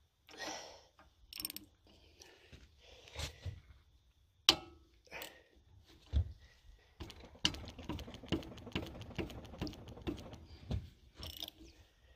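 Hand tools on the engine: scattered metal clinks and knocks, one sharp clank about four and a half seconds in, then from about seven seconds a run of rapid ratchet clicking as a socket spanner turns a nut.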